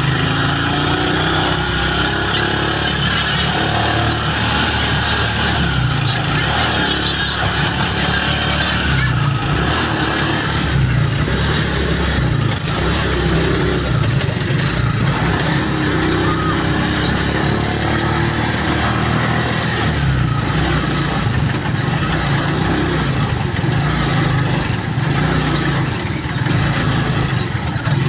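Motorcycle engine of a sidecar tricycle running steadily on the move, with road noise.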